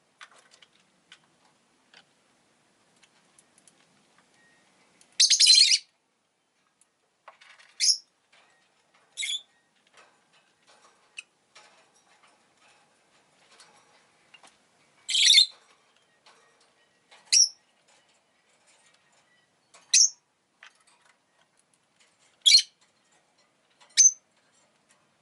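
Rosy-faced lovebird (Agapornis roseicollis) giving sharp, high-pitched chirps, about eight separate calls a second or more apart. Two of them, about five seconds in and about fifteen seconds in, are longer and louder.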